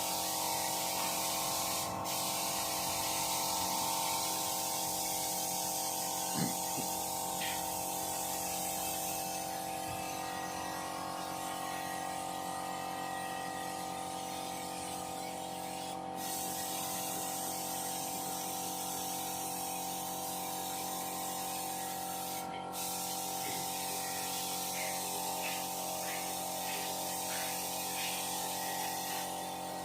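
Compressed air hissing steadily from an air gun in a car body shop, strongest for the first nine seconds or so and lighter afterwards, over a steady hum.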